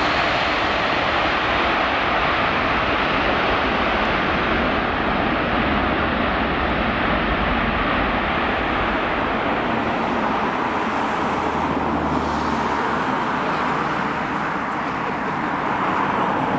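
Steady, loud jet engine noise from a Boeing 747-400's four turbofan engines as the airliner comes in on approach, easing slightly near the end.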